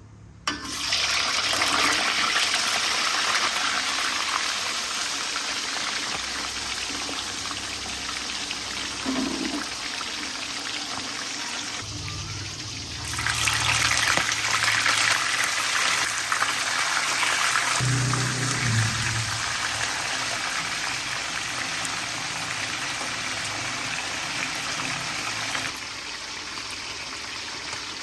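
Water running from a kitchen tap in a steady stream, growing louder about halfway through and easing off near the end.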